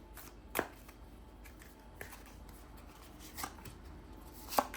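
Tarot cards being handled and laid out: four short, sharp card snaps spaced more than a second apart, the last the loudest.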